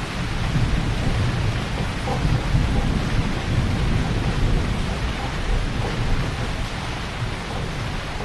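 Heavy rain falling steadily, with a low rumble of thunder that swells about half a second in and eases off over the next several seconds.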